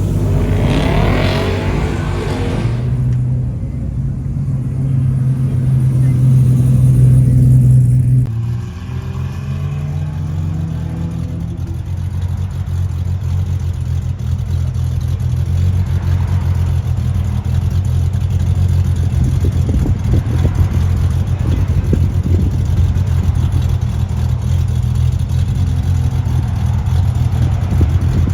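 Muscle car engine running with a deep, steady low rumble. Its note swells briefly near the start, then changes abruptly about eight seconds in, and the steady rumble carries on.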